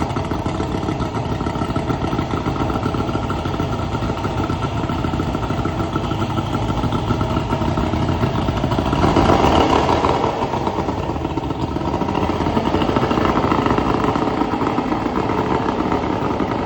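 Mercury 150 carbureted V6 two-stroke outboard test-running after a carburettor and float rebuild. It runs steadily and revs up briefly about halfway through, then settles back.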